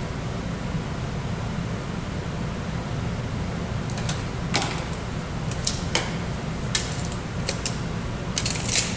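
Steady low room hum with scattered light clicks and taps from small plexiglass pieces being handled, measured and cut at a hobby bench. The clicks start about four seconds in and come more often near the end.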